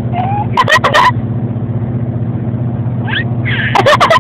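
A person laughing in short bursts, about half a second in and again near the end, over the steady low drone of a moving truck's cabin.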